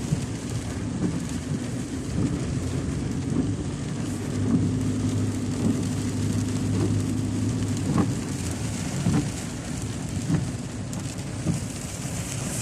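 Steady rain with a vehicle engine running underneath as a low, steady hum, and scattered sharp taps of drops.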